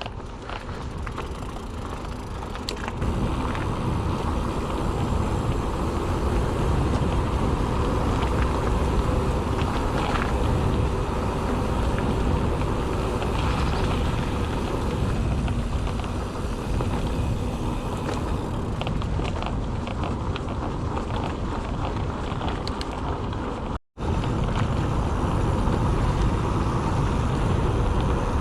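Wind buffeting the ride camera's microphone, with mountain bike tyres humming on tarmac as the bike rolls along a road; the noise steps up a few seconds in and cuts out for an instant near the end.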